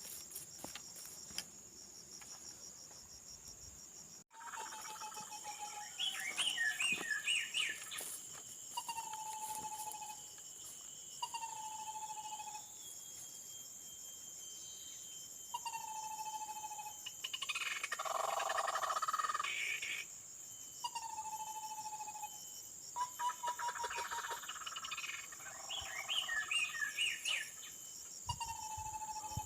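Steady high-pitched insect shrill, with bird calls over it: a short low whistled note repeated every two to three seconds, and bursts of chattering calls.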